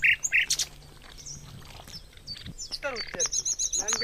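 Small birds chirping in mangrove forest: a few short high chirps at the start, then a fast run of repeated high notes near the end.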